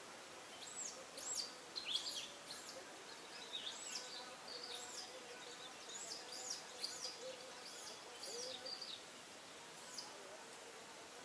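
Small birds chirping: many quick, high, rising-and-falling chirps in an irregular run, thinning out near the end, over a faint steady background hum.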